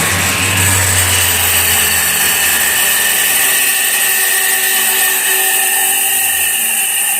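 Iveco 12 V alternator spinning on a test bench with a high steady whine. A low hum fades out about two seconds in while the whine carries on, slowly falling in pitch. The rotor keeps turning inside a slipping freewheel pulley, making noise after the pulley has stopped.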